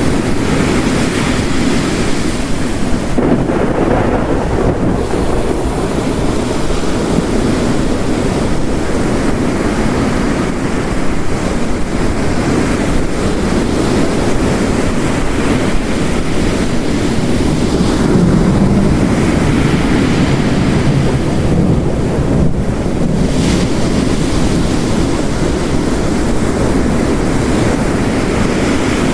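Heavy rain mixed with ocean waves breaking on a shore: a dense, steady rush that swells and eases as waves come in.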